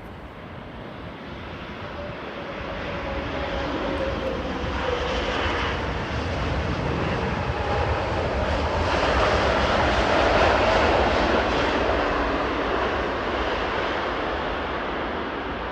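Jet airliner passing, its engine roar swelling to a peak about ten seconds in and then fading, with a faint falling whine early on as it approaches.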